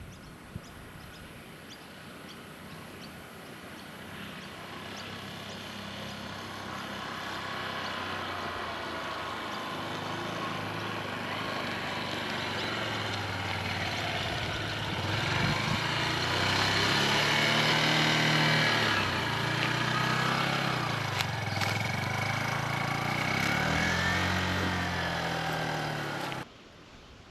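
Honda CB250e motorcycle engine coming closer, growing steadily louder, its pitch rising and falling as the rider works the throttle and gears. The sound cuts off abruptly near the end.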